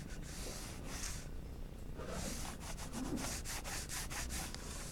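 Graphite pencil rubbing across paper in shading strokes: a couple of longer strokes, then a quick run of short back-and-forth strokes at about five a second.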